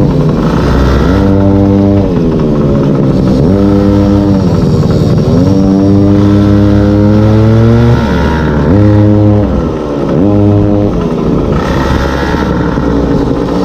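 Small two-stroke engine of a gas-powered stand-up scooter revving up and dropping off about six times as the throttle is opened and released, one pull climbing steadily for about two seconds. Wind rushes over the microphone at times.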